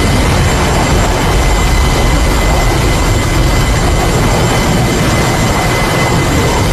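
Aircraft engines running steadily: a loud, constant roar with a steady high-pitched whine over it.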